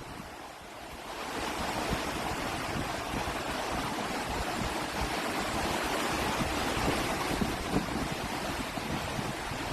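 Strong wind rushing steadily, building up about a second in, with low buffeting of the wind on the microphone.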